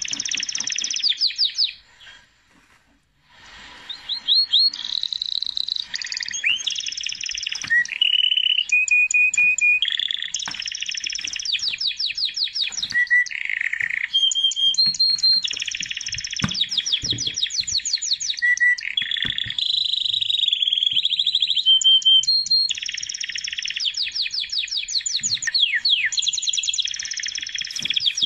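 Songbird singing in rapid trills and held whistled notes, in phrases that repeat, with a pause of about a second and a half a couple of seconds in.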